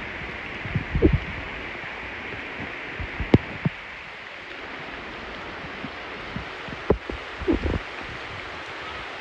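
Steady hiss of rain falling, with a few short low thuds scattered through it.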